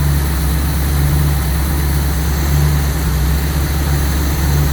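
Car engine idling steadily on its first run after a reseal, new water pump and timing chain, with the ignition timing only roughly set; the owner expects a vacuum leak or two.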